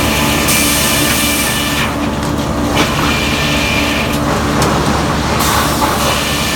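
New Frick sawmill machinery running with a steady low hum, broken by three stretches of loud high hiss about a second long each.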